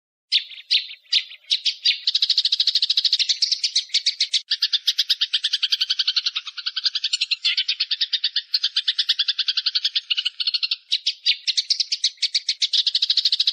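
A small bird's fast, dry chattering trill of rapidly repeated high notes, about ten a second, starting abruptly after silence and running on with two brief breaks.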